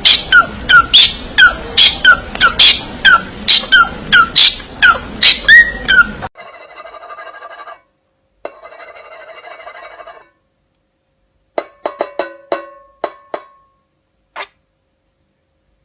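A parrot calling over and over in sharp, loud calls that fall in pitch, about two to three a second for some six seconds. Then come two short stretches of a buzzing, rapidly pulsing tone, and a few short chirps and clicks.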